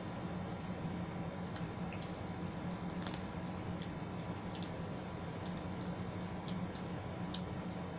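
Close-miked eating sounds: soft wet chewing with short smacking clicks scattered throughout, over a steady low hum.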